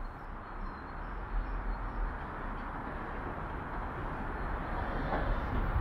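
A train approaching on the line, a rushing rumble that grows slowly louder.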